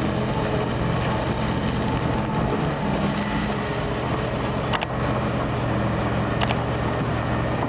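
Heavy truck engine running at a steady drone, with a few brief sharp clicks in the second half.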